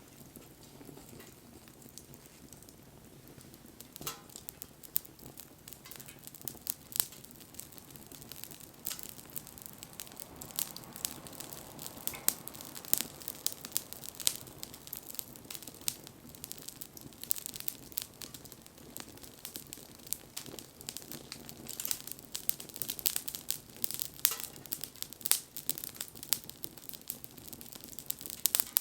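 Wood campfire crackling, with sharp pops and snaps of burning wood that come more and more often as it goes on.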